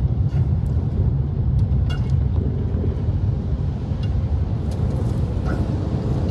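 Strong squall wind buffeting the microphone: a loud, steady low rumble with a few faint knocks.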